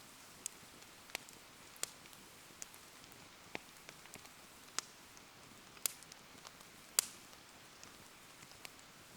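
Wood fire crackling in the rain: irregular sharp pops and ticks, the two loudest about six and seven seconds in, over a steady hiss of falling rain.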